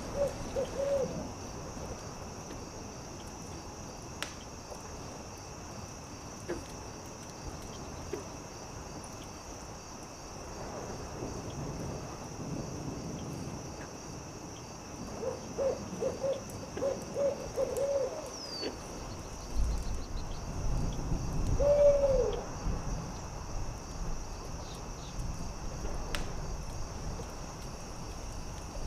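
An owl hooting: a couple of hoots at the start, a quick run of about seven hoots midway, then one longer hoot that falls in pitch. A steady high insect drone sits underneath, with occasional sharp crackles from a campfire.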